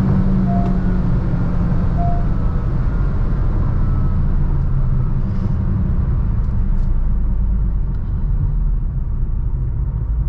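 Honda Elevate's 1.5-litre naturally aspirated four-cylinder engine and road noise, heard from inside the car as it slows after a full-throttle run. The engine note falls slowly over the first few seconds and gives way to a steady low road and tyre rumble.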